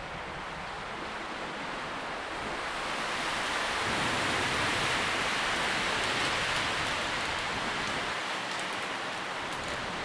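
Tree leaves rustling in the wind. A gust builds about three seconds in, peaks, then dies back to a steady rustle, with a few faint crisp ticks near the end.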